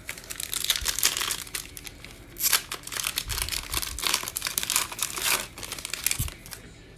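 Foil trading-card pack wrapper being torn open and crinkled in the hands, a run of crinkling bursts that stops about half a second before the end.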